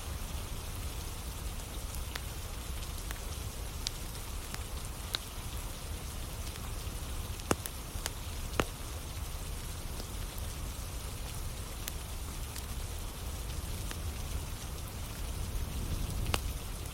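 Steady rain with a wood fire burning: an even hiss and low rumble dotted with sharp crackles, two louder pops about halfway through.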